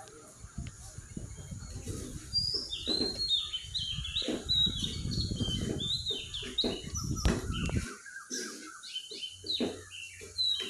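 Birds chirping: many short, high, falling chirps in quick runs from about two seconds in, over a low rumble that stops abruptly about eight seconds in.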